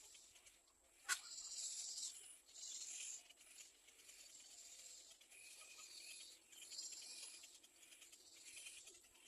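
Faint, hissy, high-pitched begging calls of nestling birds in several short bouts, after a sharp click about a second in.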